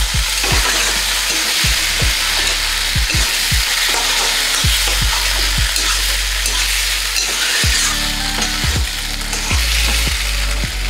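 Soya chunk manchurian with peppers and onions sizzling in a hot wok, with a spatula stirring and tossing it: a steady frying hiss under irregular scrapes and knocks of the spatula against the pan.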